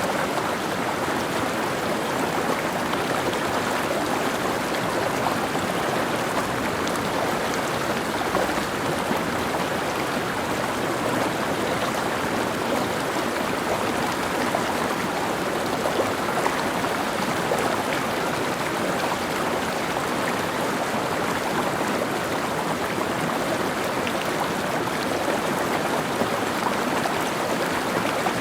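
Mountain stream running over rocks: a steady rush and babble of water.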